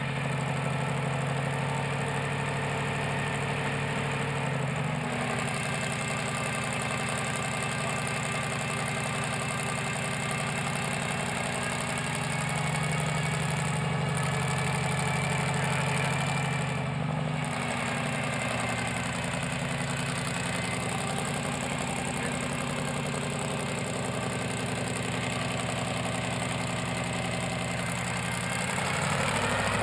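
377 cubic inch small-block Chevrolet V8 idling steadily, its revs beginning to rise near the end.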